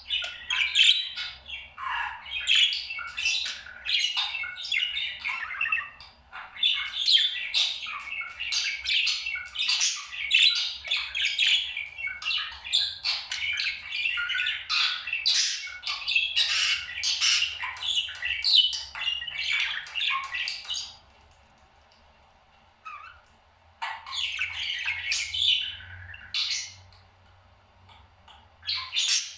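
Pet parrot chattering and squawking in rapid, dense bursts. It breaks off for a few seconds about two-thirds of the way through, chatters briefly again, then pauses once more.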